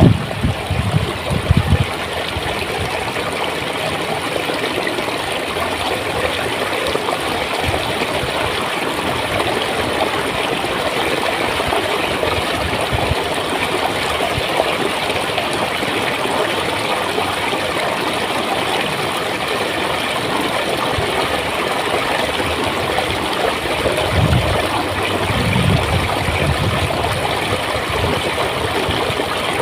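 Stream water flowing and gurgling steadily, with low rumbling surges in the first two seconds and again about 24 seconds in.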